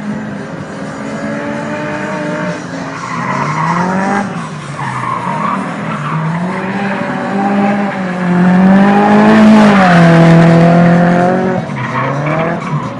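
A competition vehicle's engine accelerating hard up a hill-climb course, its note rising and then dropping at each gear change. It grows loudest about eight to eleven seconds in, then falls away as it passes.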